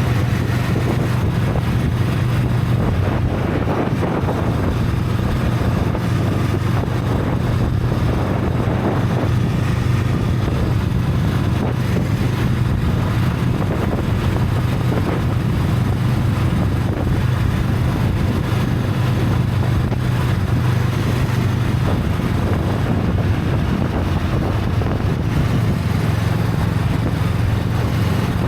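Honda Rebel 500's parallel-twin engine through its stock exhaust, running at a steady, nearly constant pitch while cruising, with a rush of wind noise over the microphone.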